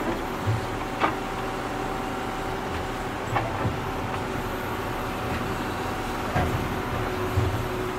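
Tractor engine running steadily while digging, with a few short knocks at irregular moments.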